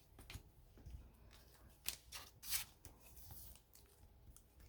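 Faint rustles and flicks of Upper Deck Credentials hockey trading cards being slid and handled, with a sharp flick about two seconds in and a longer slide right after it.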